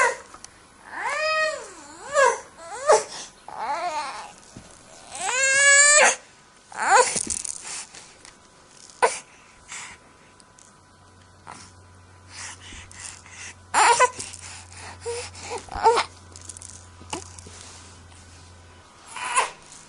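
Baby crying and fussing: a run of short wavering wails, one longer cry around six seconds in, then a few brief cries with pauses between.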